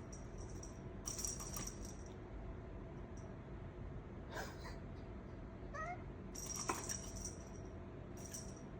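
A cat playing on its own, setting off several short jingles of a small bell, with a few light knocks and one brief rising chirp-like meow about six seconds in.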